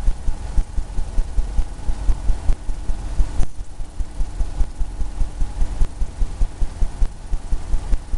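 Paintbrush dabbing and tapping paint onto a stretched canvas: rhythmic dull thumps, about four to five a second, as the canvas is struck again and again.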